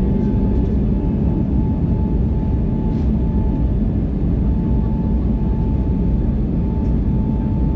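Steady cabin noise of an Airbus A321neo in flight: an even low rush of engines and airflow with a faint steady tone running through it.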